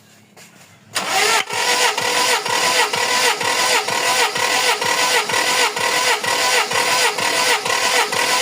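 Toyota 1RZ inline-four petrol engine being cranked by its starter motor for a compression test on cylinder 1, starting about a second in. The starter whines steadily under a rhythmic chug of compression strokes, about two to three a second, and the engine does not fire.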